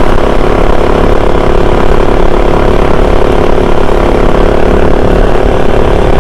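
Kove 450 Rally's single-cylinder four-stroke engine running at a steady speed while riding, with wind and road rumble on the helmet microphone.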